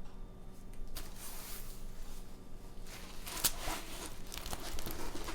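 Plastic packaging crinkling and tearing as a package is opened by hand, a rustle of about two seconds followed by scattered crackles and light clicks of handling.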